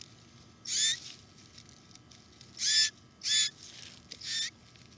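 Baby bird giving four short, high begging calls, each about a third of a second long, calling to be fed.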